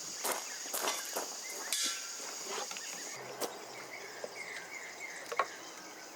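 A steady high insect drone that stops about halfway through, with scattered clicks and knocks and a few faint bird chirps.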